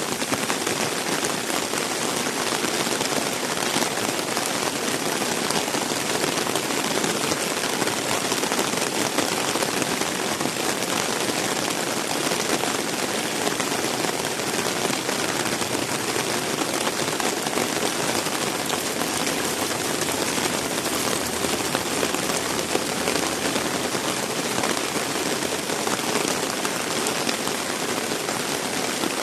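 Heavy rain falling in a steady, even downpour, a dense hiss of drops on the ground and surrounding surfaces.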